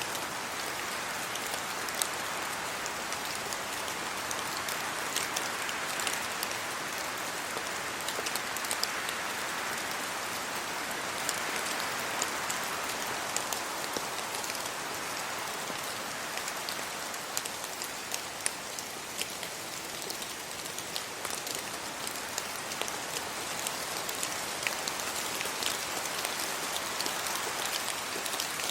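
Steady rain falling, an even hiss dotted with frequent sharp ticks of single drops striking close by.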